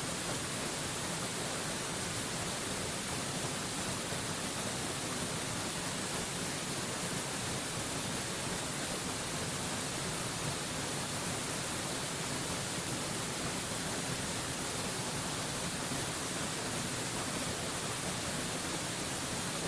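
Waterfall rushing as a steady, unbroken wash of noise, even from low to high pitch, with no changes or separate splashes.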